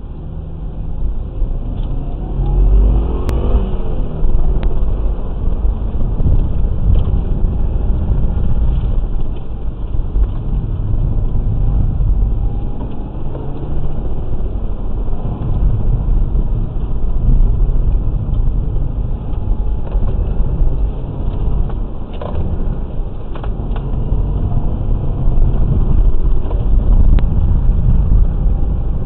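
2008 Subaru WRX's turbocharged flat-four engine, heard from inside the cabin, pulling away from a standstill about two seconds in with a rising rev. It then runs hard with a heavy low rumble that swells and eases as the car accelerates and brakes through the autocross course.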